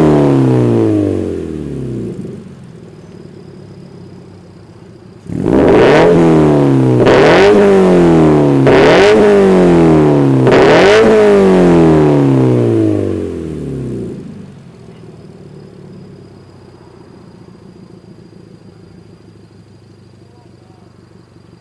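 Scion FR-S / Subaru BRZ flat-four engine, breathing through a Tomei Expreme Type-60R exhaust with a Fujitsubo front pipe, being free-revved. A rev falls back to idle at the start. After a few seconds of idle, about four sharp throttle blips follow one after another, each rising quickly and dropping away. The engine then settles back to a steady idle.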